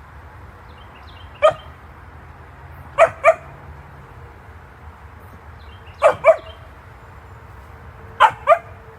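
A dog barking: seven short barks, one on its own and then three pairs.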